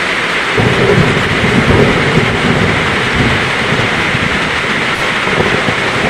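Heavy rain falling steadily, with a low roll of thunder that starts about half a second in and rumbles on, fading over the next few seconds.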